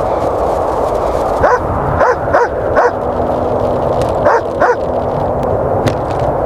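A dog barking in short barks, a run of four and then two more, over a steady rush of wind.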